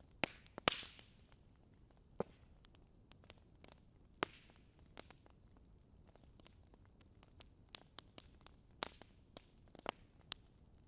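Wood fire crackling in a fireplace: irregular sharp pops and snaps, the loudest about half a second in, over a faint steady hiss.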